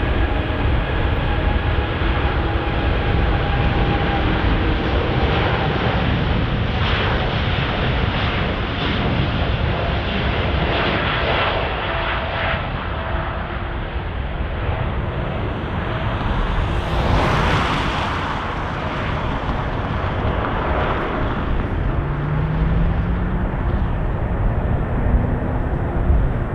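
Jet airliner's engines running loud as it passes, a deep continuous rumble with a faint steady whine early on and a rushing hiss that swells about seventeen seconds in.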